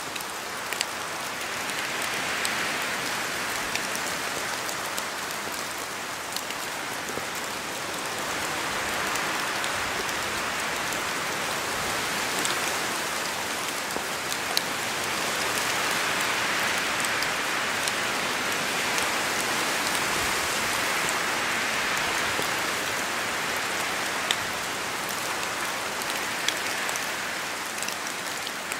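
Rain falling in a spruce forest: a steady patter with scattered sharp drips from the branches. Wind in the trees swells and eases several times.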